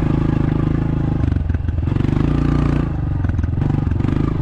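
Dirt bike engine running as it is ridden, its note dropping and changing pitch briefly about a third of the way in and again past the middle as the throttle is eased and opened.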